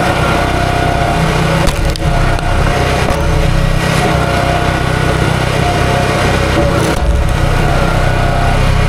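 A small gasoline engine running at a steady speed while wood cracks and splinters.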